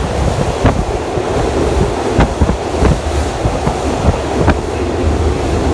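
Open-air trolley train car running on the rails: a steady low rumble with wind buffeting the microphone, and several sharp clacks from the wheels at uneven intervals.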